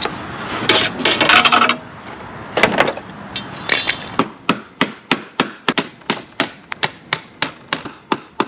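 Hammer striking the crushed metal panel of an RV cargo door to bang it straight: some scraping and a few separate knocks first, then a steady run of quick blows, about three a second, from about halfway in.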